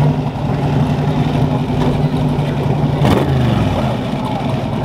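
A vehicle engine running steadily with an even low hum, with a sharp click about three seconds in followed by a brief drop in pitch.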